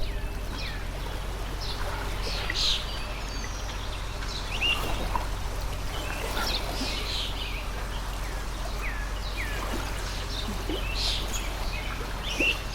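Water stream flowing with an even rush, while birds chirp in short calls scattered throughout.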